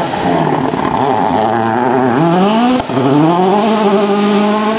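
Rally car under hard acceleration, its engine note climbing steeply. A brief cut for an upshift comes just under three seconds in, and the revs then rise again.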